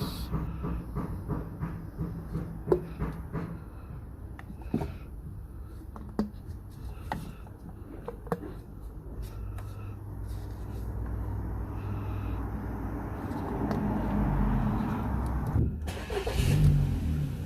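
2005 Ford Focus 1.6 petrol engine being started after water was blown out of its spark plug wells, the water having caused misfiring and stalling. It runs with a steady low hum that grows louder over the last several seconds, with scattered clicks and knocks.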